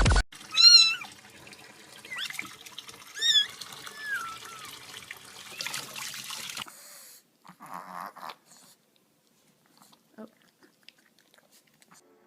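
A domestic cat meowing four times in quick succession, the first call the loudest, over a faint steady hiss.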